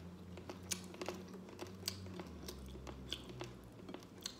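A person chewing crispy scorched rice (dukot) close to the microphone: irregular sharp crunches several times a second, over a faint low hum.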